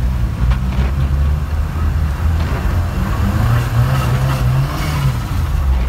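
Saab 90 Turbo's engine running under load, heard from inside the cabin as a steady low drone while the car is driven on ice.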